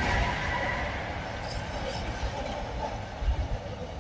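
Container wagons of a freight train rolling past with a steady rumble of wheels on rail, easing slightly in level after the first second.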